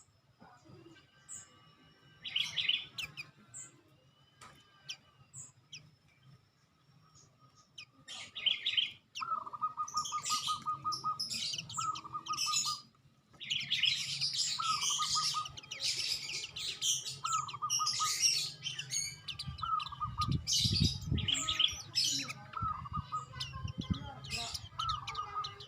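Songbirds chirping and singing: bursts of high chirps and short runs of rapid, evenly trilled notes, quieter for the first several seconds and busier after that. A brief low rumble comes toward the end.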